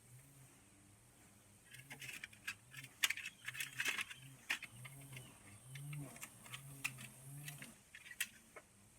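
Light metallic clinking and rattling of tools and mower-deck parts being handled, a run of irregular sharp clicks that starts about two seconds in and thins out near the end.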